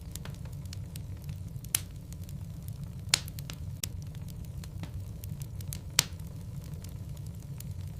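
Wood logs burning in a fireplace: a steady low rumble of the fire with frequent small crackles, and three loud sharp pops at about two, three and six seconds in.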